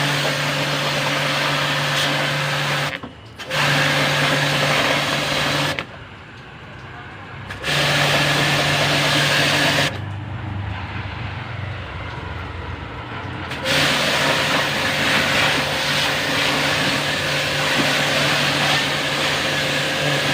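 Electric high-pressure washer running, its motor humming under the hiss of the water jet on an air-conditioner condenser unit. The sound stops abruptly for a moment about three seconds in, then drops away twice more for a few seconds each.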